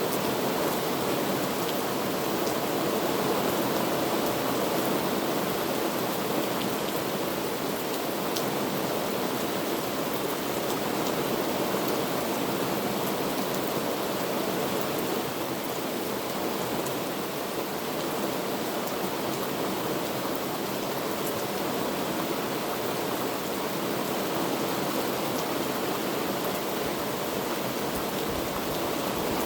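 Heavy rain falling in a steady dense rush, with faint scattered drop ticks.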